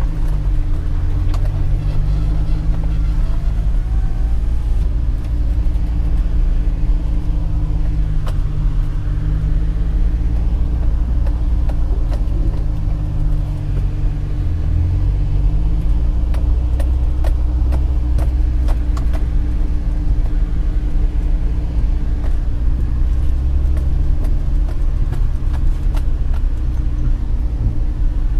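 Infiniti G35's V6 engine pulling at low revs with heavy road rumble, heard from inside the cabin while driving on a gravel road; the revs rise and fall a little. Scattered clicks and knocks come from stones and bumps under the car, more of them in the second half.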